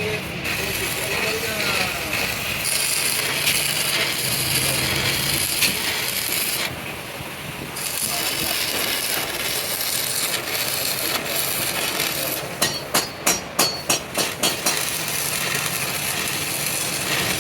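Steady workshop metalwork noise with rubbing and scraping, then a quick run of about nine sharp knocks, roughly four a second, about twelve seconds in.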